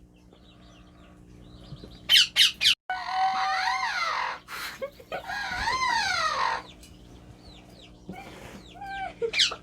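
Pet parrots calling: a few quick sharp chirps, then two long squawks that rise and fall in pitch, and more short chirps near the end.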